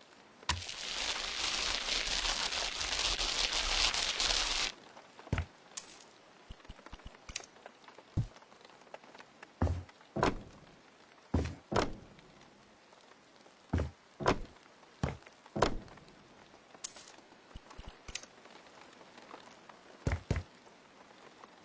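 A few seconds of steady hissing near the start, then a string of separate sharp knocks and clinks at irregular intervals, roughly one a second.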